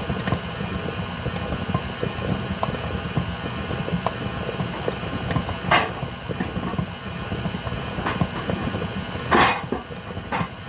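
Electric stand mixer running steadily as it mixes brownie batter, with pans knocking and clattering as a cupboard is rummaged; the loudest knocks come about six and nine seconds in.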